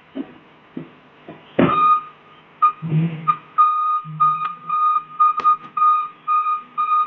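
A knock or two, then a loud bang about a second and a half in, followed by an electronic warning beeper sounding one high tone in short repeated beeps, about two to three a second.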